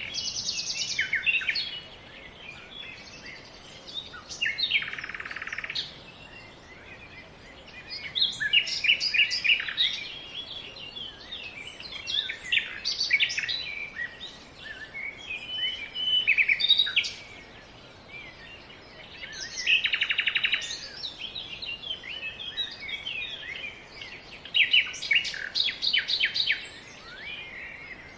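Songbirds singing outdoors: varied phrases of quick chirps and whistles, with short buzzy trills about a second in, around five seconds in and around twenty seconds in, the phrases coming every few seconds over a faint background hiss.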